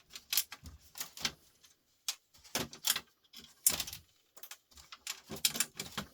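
Irregular clicks and knocks from hand dismantling of a record player: tools and small parts tapping and rattling while a spring-held part is worked loose.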